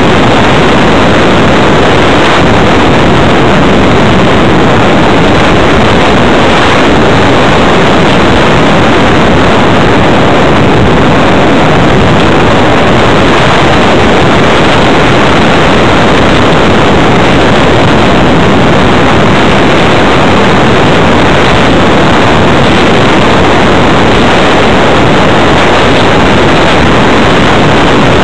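Steady, loud, distorted rush of air and drive noise picked up by a small camera riding on board a Multiplex Blizzard RC electric hotliner in flight. It has no clear pitch and does not change.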